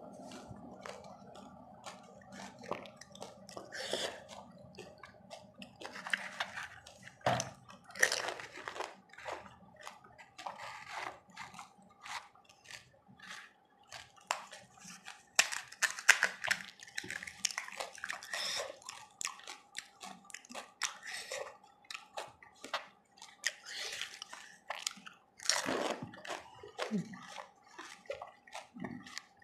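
Close-up eating of pani puri: crisp, hollow puri shells crunched and chewed, with many sharp irregular crunches and clicks.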